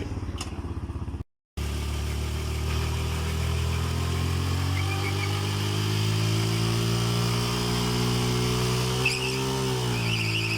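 Motorcycle engine held at high, steady revs for a burnout, the pitch creeping slowly upward, then dipping briefly and settling near the end. The sound cuts out completely for a moment about a second in.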